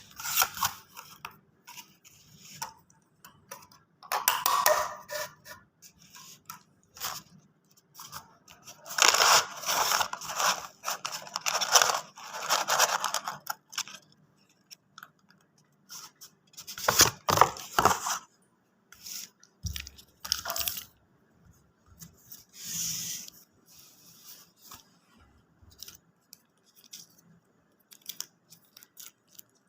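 Paper take-out packaging being handled and torn open, in irregular bouts of rustling and tearing with short pauses.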